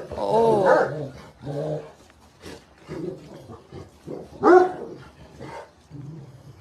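A dog vocalizing in a string of short barks and whines. A longer call that bends up and down in pitch comes near the start, and shorter bursts follow every second or so.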